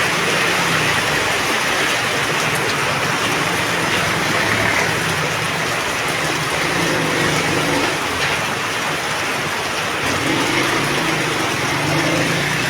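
Heavy rain pouring down steadily, a loud even hiss, with a faint low hum underneath.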